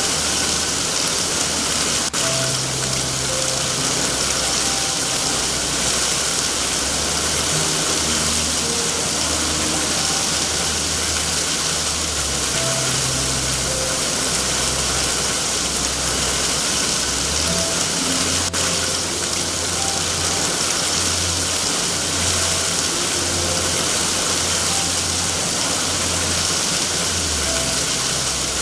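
Steady rain hiss, with soft low music notes and a shifting low drone underneath, and two single faint clicks, about two seconds in and near 18 seconds.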